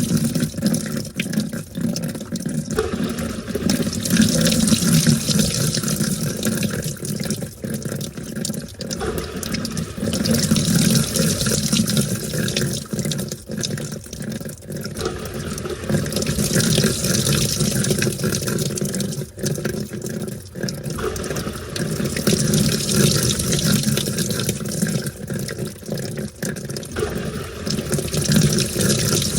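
Washing machine washing a load of towels: water sloshing and splashing in the tub, swelling and easing off in surges every few seconds as the wash action turns the load one way and then the other.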